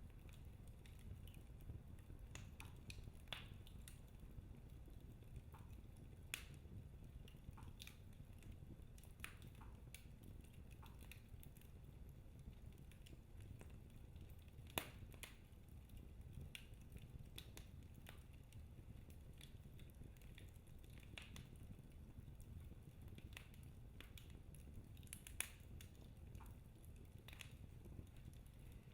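Wood fire in a fireplace crackling: irregular sharp pops and snaps of burning logs over a faint low rumble, with two louder pops about 15 and 25 seconds in.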